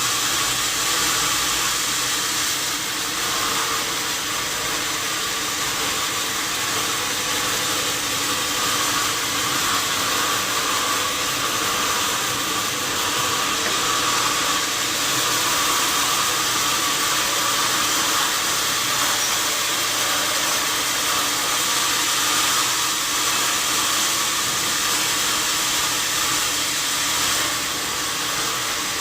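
Sawmill saw running with a steady, continuous whirring noise and a faint even hum, unchanged throughout.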